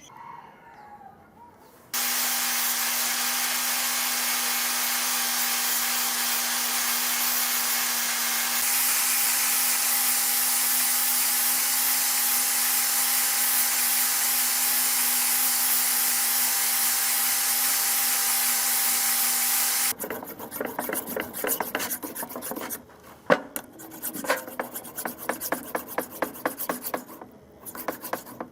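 A power tool runs steadily with a hiss and a steady hum, starting and stopping abruptly after about 18 seconds. Then come irregular hand scraping and rubbing strokes with a few sharp clicks, typical of sanding or filing a part by hand.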